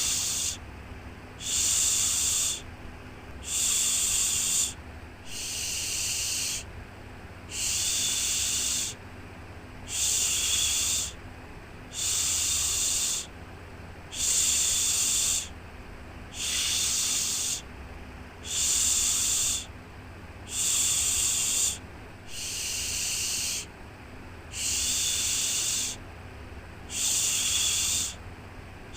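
Rhythmic 'shhh' shushing for a baby: a hissing shush about a second long repeated roughly every two seconds, over a faint low hum.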